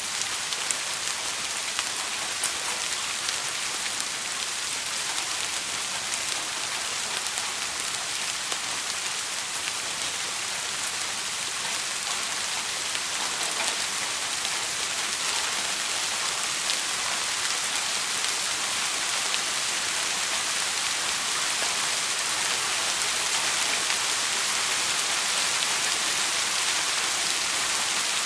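Steady rain pattering on a surface, an even hiss with scattered small drop ticks, growing slightly louder near the end.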